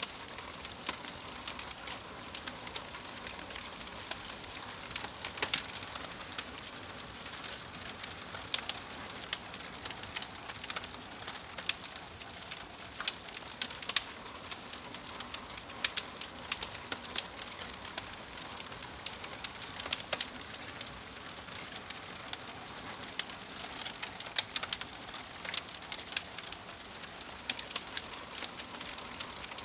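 Fire crackling: a steady hiss with many sharp pops and snaps, several a second and irregular.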